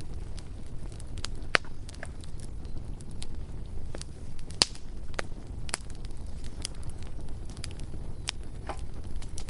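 Bonfire crackling: irregular sharp pops and snaps over a steady low rumble, with the loudest pops about one and a half seconds in and just past halfway.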